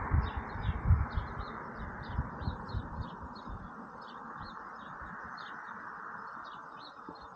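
Small birds chirping over and over, about two or three short chirps a second, over a steady rushing hiss. Low thumps come in the first few seconds, then stop.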